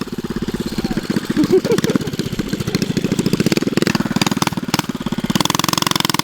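Predator 212 single-cylinder four-stroke engine on a mini bike running, its exhaust beating in a rapid, even pulse.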